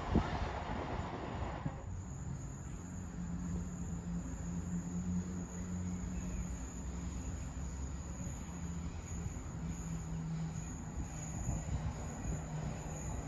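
A train running with a steady low drone, a faint high steady whine above it. A rush of wind on the microphone cuts off about two seconds in.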